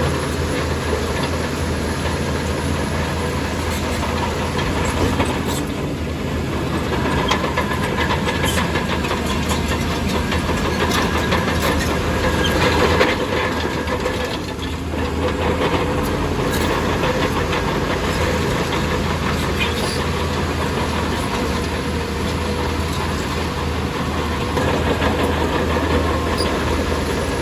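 Heavy earthmoving machinery: a large diesel engine running steadily under a constant low drone, with scattered metallic clanks and rattles.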